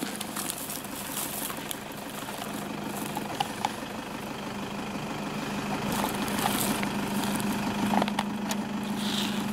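Vehicle engine idling steadily, its hum growing stronger in the second half, with a few scattered sharp clicks and scuffs.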